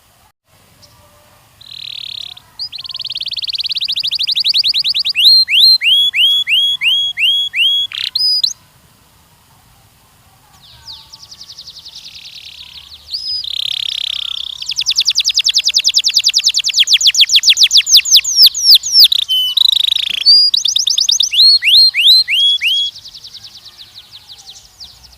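Canary singing two long song phrases of fast trills and rapid series of repeated downward-sweeping whistled notes, with a short pause between them about nine seconds in.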